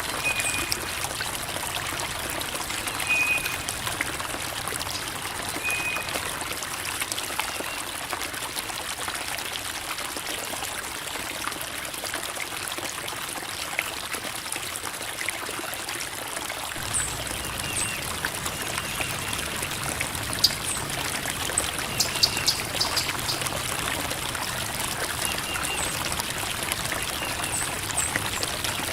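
Creek water babbling and trickling steadily over rocks. Short high chirps recur every few seconds over the water.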